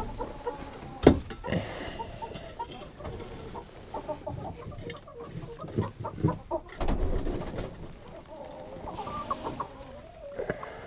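Hens clucking in a coop, a busy run of short calls, with a sharp knock about a second in.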